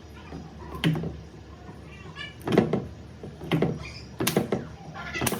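A series of about five sharp knocks, irregularly spaced, over a steady low hum.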